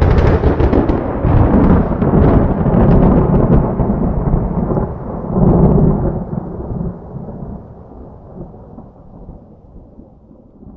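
A thunderclap breaks suddenly with a crackling crash. It rumbles heavily, swells again about five or six seconds in, then rolls away and fades.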